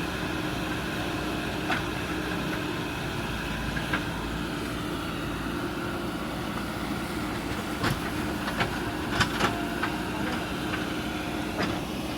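JCB backhoe loader's diesel engine running steadily, with a few sharp knocks and clanks scattered through, loudest in a cluster about eight to nine and a half seconds in.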